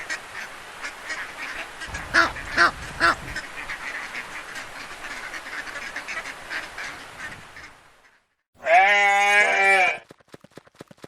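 Ducks quacking, many short quacks with a few louder ones about two to three seconds in. After a brief silence comes one loud, wavering call about a second long, then rapid, even clicking.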